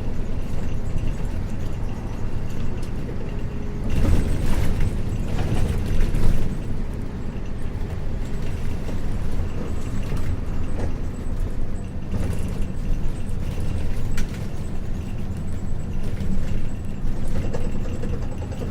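Isuzu U-LV224N bus with its 6QB2 diesel engine under way, heard from inside the cabin: a steady low engine drone, louder for a couple of seconds around four to six seconds in, with scattered rattles and knocks from the body.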